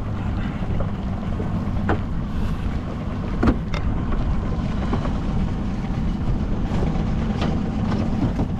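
A small boat's outboard motor idling steadily, with wind noise on the microphone and a few sharp knocks on the boat.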